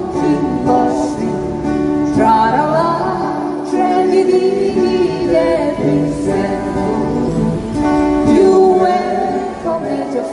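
Live acoustic guitar music with singing.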